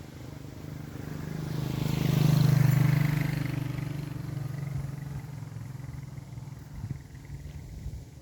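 A motor vehicle drives past, its engine hum and tyre noise swelling to loudest about two and a half seconds in, then fading away.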